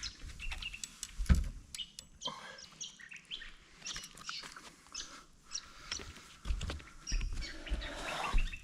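Birds chirping and calling, with a few dull low thumps, the loudest about a second in.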